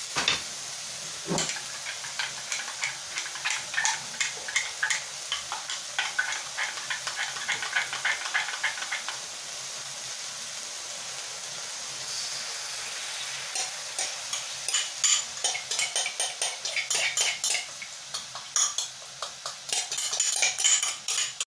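Steak strips and onion sizzling in a steel wok with a steady hiss, while a utensil clicks and scrapes in quick irregular runs, once through the first half and again from a little past the middle.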